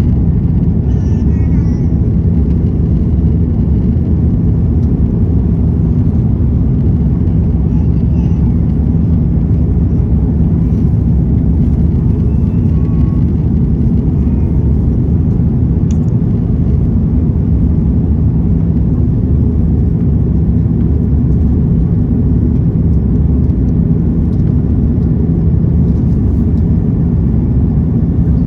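Steady low drone of an Airbus A330-200's jet engines and airflow, heard inside the passenger cabin during takeoff.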